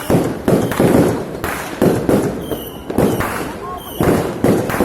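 Fireworks going off in rapid succession: about ten loud bangs, two or three a second, each with a short crackling tail, mixed with a few brief whistles.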